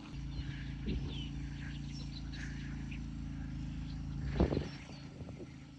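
Delivery truck's engine running steadily, with a single knock about four and a half seconds in.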